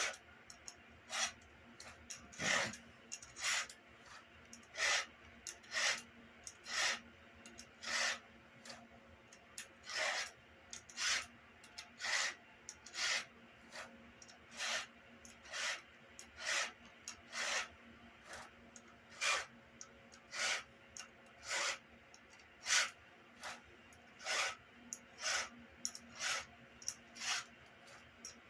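Hand file rasping across the cutting teeth of a Stihl MS170 chainsaw chain, one short stroke about every second, a few strokes to each tooth as the chain is sharpened.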